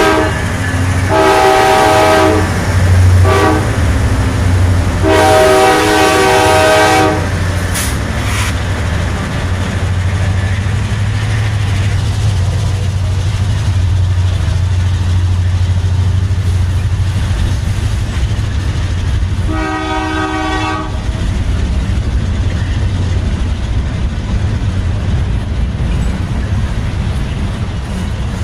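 Five-chime K5LA air horn on a pair of GE Dash 9-44CW locomotives sounding the grade-crossing signal: the end of a long blast, then long, short, long, and one more blast of about a second and a half about twenty seconds in. The diesel engines rumble steadily underneath throughout.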